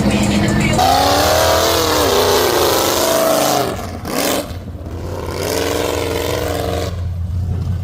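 Mud truck engine revving hard under load while pulling a stuck vehicle out of the mud, in two pushes of throttle with a short let-off between them, over a steady low engine drone.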